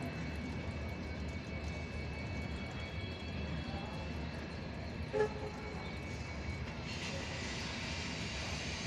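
Steady low rumble of a passenger train running slowly, heard from on board. A brief pitched sound stands out about five seconds in, and a hiss comes in over the last two seconds.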